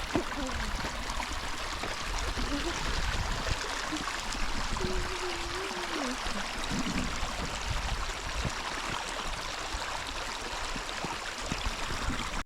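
Irrigation water running steadily through a potato field's ditch and furrows, with faint voices in the background.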